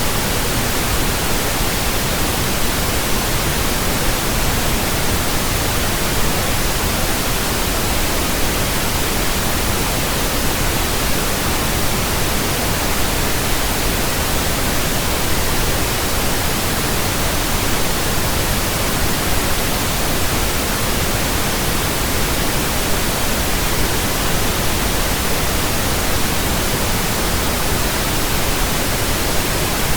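Steady pink noise from a generator, an even hiss across the whole range with no change, played as a burn-in signal for new speakers and earphones.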